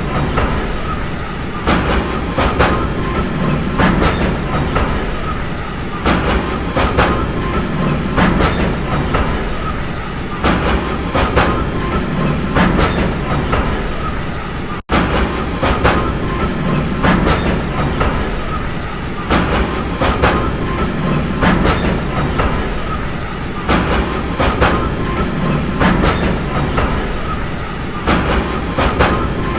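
Train wheels rolling over rail joints: a steady rumble with groups of sharp clickety-clack clicks every couple of seconds. The sound cuts out for an instant about halfway through.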